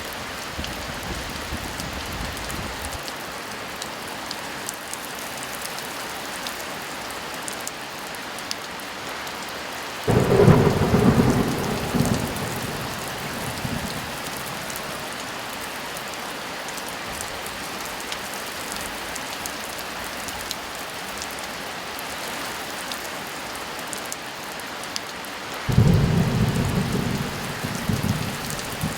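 Steady heavy rain falling, with two rolls of thunder: one breaking suddenly about ten seconds in and rumbling for a few seconds, and another starting near the end and still rumbling as it closes.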